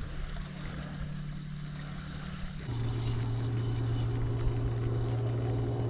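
Boat motor running with a steady hum; a little under halfway through its pitch drops and it gets louder, as the motor changes speed.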